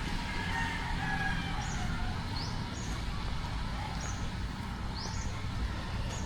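A bird giving short, high, rising chirps about once a second over a steady low rumble of outdoor background noise.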